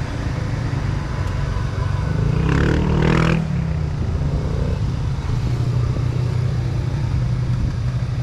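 Steady wind rumble on the microphone of a moving bicycle. A motor vehicle passes close by around three seconds in, rising to a peak and then falling away.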